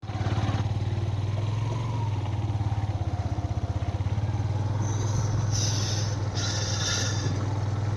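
A vehicle engine running steadily at an even speed, with a low, fast, regular pulsing hum. Short bursts of hiss come and go about five to seven seconds in.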